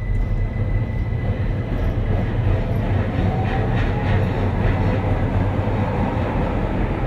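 Keihan 800 series train pulling away from a station, heard inside the car: the low rumble of motors and wheels, with the Toyo IGBT three-level VVVF inverter's tone rising in pitch as the train gathers speed.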